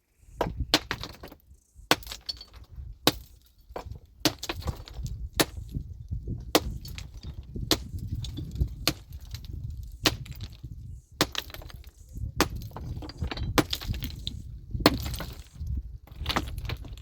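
Heavy metal tool striking rock in a steady rhythm, about one blow every second and a bit, some fourteen sharp cracks in all: stone being broken by hand.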